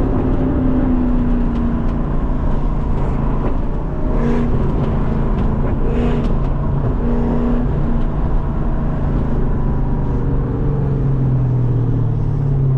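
Lexus SC400's V8 with a loud exhaust, running steadily while the car is driven. The engine note climbs a little near the end.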